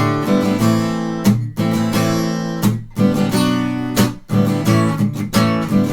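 Acoustic guitar strummed slowly in the gallop pattern: repeated down-up-down triplets with the third downstroke accented. It moves through a chord progression, with short breaks where the chords change.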